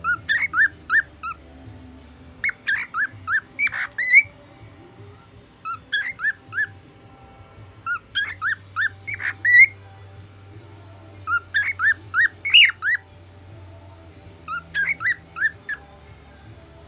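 Male cockatiel singing: phrases of four to six quick whistled notes, each phrase about a second long, repeated every two to three seconds.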